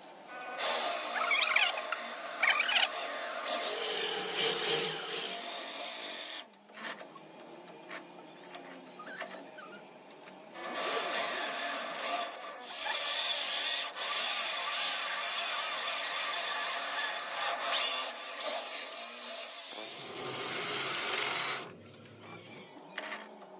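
Power tool working metal in two long runs, each several seconds, with quieter pauses between, and a shorter, lower-pitched run near the end.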